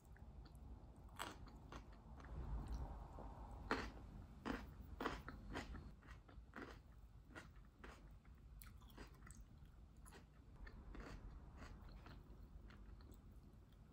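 Close-up biting and chewing of a pan-fried zucchini potato pancake: a string of short, soft crunches, loudest a second or so in until about halfway, then fainter chewing.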